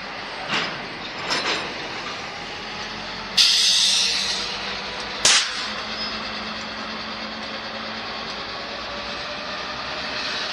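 Canadian Pacific diesel locomotives and freight cars rolling slowly past, with a steady engine and wheel rumble. Two knocks come in the first second and a half, a sudden hiss about three seconds in that fades over a second, and a sharp bang a couple of seconds later.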